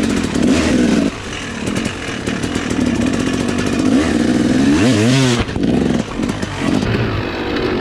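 Dirt bike engines running and revving in short stretches that change abruptly about a second in and again just past five seconds, with a quick rev rising and falling in pitch about five seconds in.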